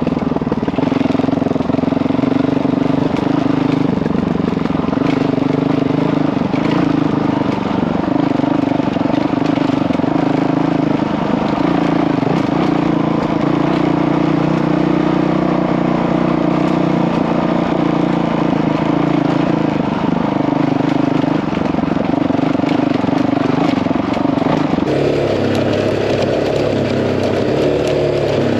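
Honda CRF dirt bike's single-cylinder engine running steadily while riding, with a change in the engine note near the end.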